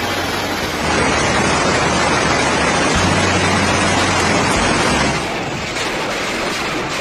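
Storm noise: a loud, steady rush of strong wind and rain, a little louder from about a second in. Its character changes about five seconds in.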